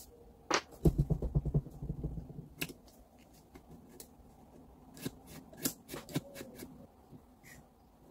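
Hand work on the grinder's parts: a quick run of knocks and rattles about half a second in, then scattered sharp clicks, like metal parts and tools being handled and set down.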